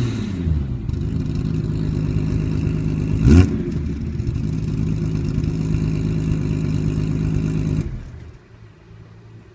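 BMW E34 M5's S38B36 3.6-litre straight-six idling through a straight-piped exhaust with the middle section removed, settling down from a falling rev, with one quick throttle blip about three seconds in. The engine sound drops away sharply near the end.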